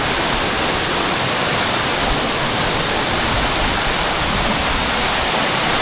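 Waterfall pouring, a steady loud rush of falling water with no breaks.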